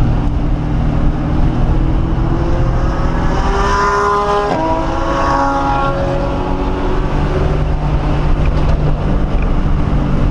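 Steady in-cabin drone of a 1997 Ford Mustang SVT Cobra's 4.6-litre V8 at track speed. About midway, another engine sweeps up in pitch and then drops sharply, as a faster car goes by.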